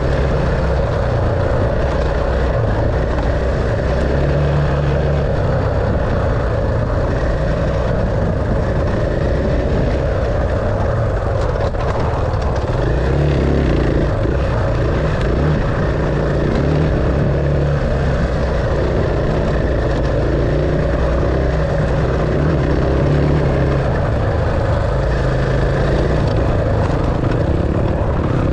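Dirt bike engine running continuously under way, its pitch stepping up and down a little with the throttle.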